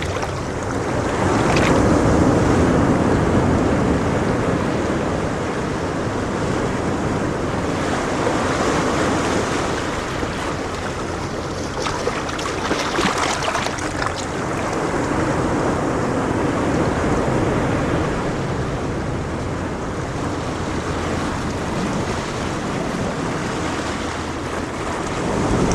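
Sea waves breaking and washing up a sandy beach, a continuous surf noise that swells and eases every few seconds as each wave comes in, with some wind on the microphone.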